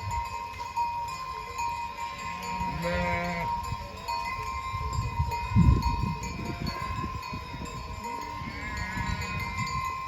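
Livestock calling: wavering cries, one about three seconds in and another near the end, over a low rumble that swells in the middle.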